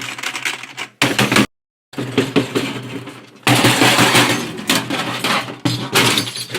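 Rapid, loud banging and clattering of hard objects, in several bursts cut short by sudden gaps.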